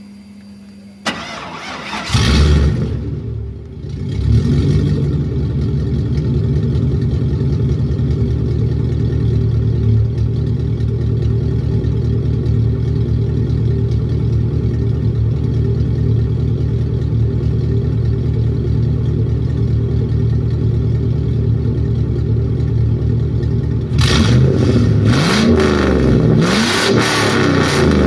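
A 1999 Chevrolet Silverado's 5.3-litre V8 with a homemade straight-pipe exhaust is started about two seconds in, flares up, then settles to a loud steady idle. Near the end it is revved several times, the pitch rising and falling.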